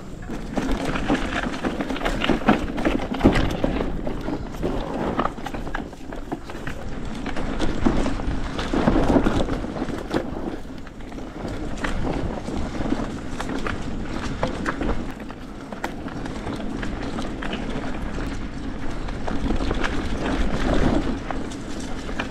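Hardtail mountain bike ridden over a bumpy dirt trail: tyre noise and rumble with frequent knocks and rattles from the bike and its loaded rear rack and trunk bag, with wind on the microphone.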